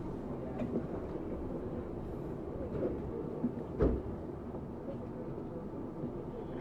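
Low rumble inside a Tokyu 7700 series electric train car, with a single knock about four seconds in.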